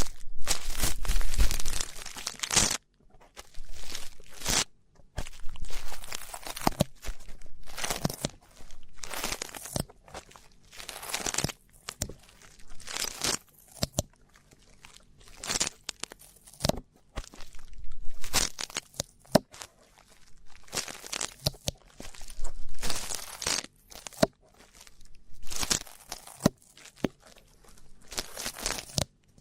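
Close-up ear-cleaning sounds: an ear-cleaning tool scraping and rubbing against an ear microphone in short, irregular, crackly strokes with brief pauses between them.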